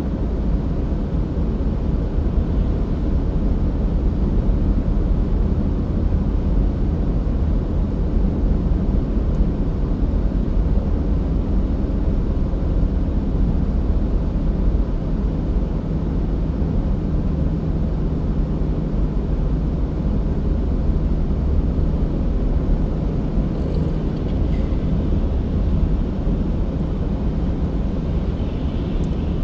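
Steady low rumble of a car driving: road and engine noise with a faint hum.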